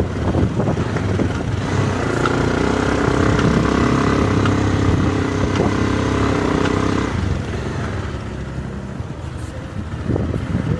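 Motorcycle engine running on the move, with road and wind noise. A steady engine note holds from about two seconds in and eases off at about seven seconds.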